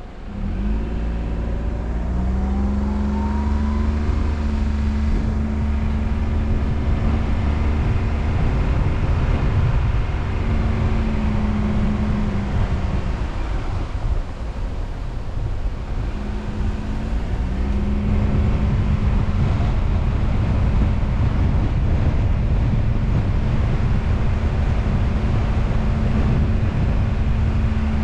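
Car engine and road noise while driving. The engine climbs in pitch over the first couple of seconds, falls away around thirteen seconds in, picks up again a few seconds later and then holds steady.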